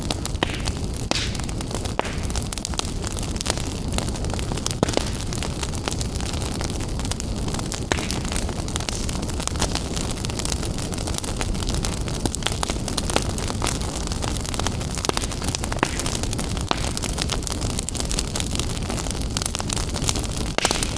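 Fire crackling in a fireplace: a steady low rumble and hiss with frequent sharp, irregular crackles and pops.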